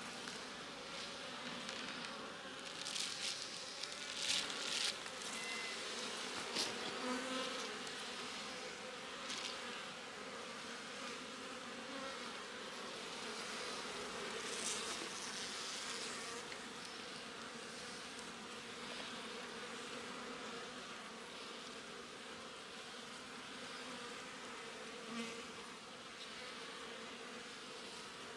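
Honeybee colony buzzing as a steady hum from an opened hive, with a few short scratchy noises about three to five seconds in and again midway.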